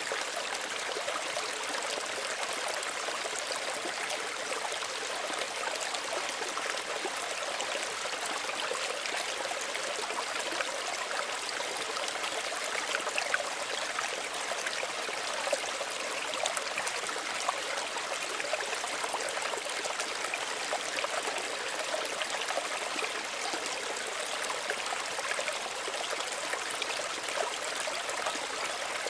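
A small stream running steadily over stones, a continuous gentle babble with small splashes and trickles.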